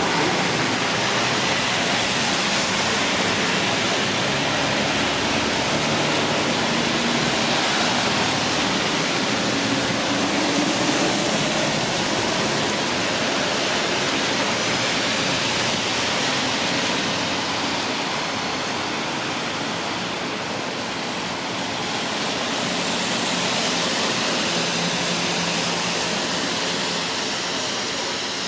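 Steady hiss of rain falling on a town street, with a low hum from passing traffic at times.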